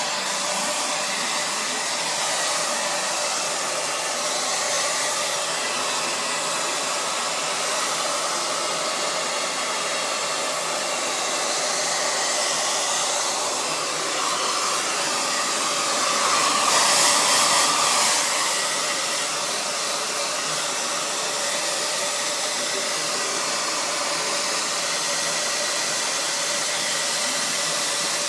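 Handheld hair dryer running steadily, blowing. It grows louder and brighter for about two seconds a little past the middle.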